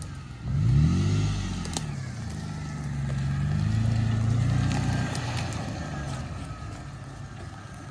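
Off-road truck engine revving up and easing off, once about a second in and again in a longer swell around four seconds in.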